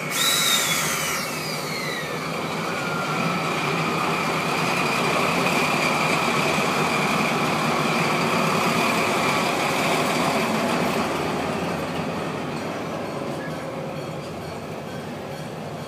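Diesel freight locomotive passing close, then its container flat wagons running by over the rails. A high whine falls in pitch over the first couple of seconds as the locomotive goes past, and a steady high tone runs underneath until about two-thirds through.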